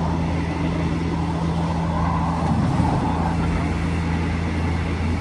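Passenger train carriage, heard from inside: a steady low engine hum over an even rumble.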